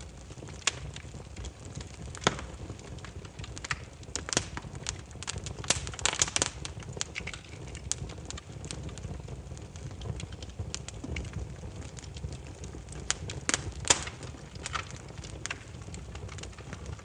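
Burning firewood crackling, with irregular sharp pops over a steady low rumble of the flames. The pops come thickest about a third of the way in and again near the end.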